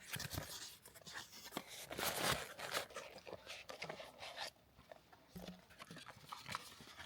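Product packaging being opened by hand: crinkling, tearing and scraping of the wrapping and box, busiest over the first four seconds or so, then only a few light clicks.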